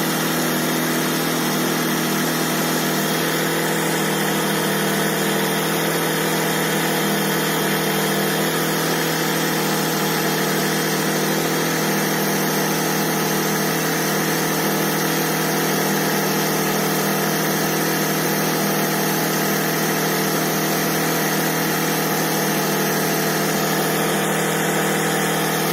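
Electric air pump running steadily at a constant pitch, inflating an inflatable boat's chambers through its hose.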